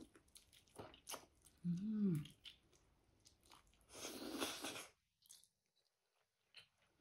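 Close-miked chewing of tender, saucy braised chicken adobo, with wet mouth clicks and smacks. A short hummed "mm" comes about two seconds in, and a brief breathy rush of noise about four seconds in.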